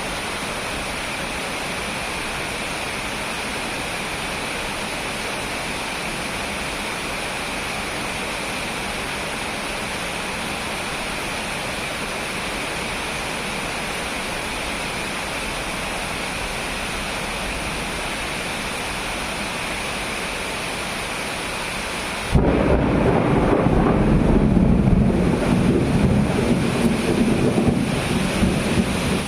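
Steady hiss of heavy rain. About 22 seconds in, a sudden close thunderclap breaks in and rumbles low and loud for several seconds.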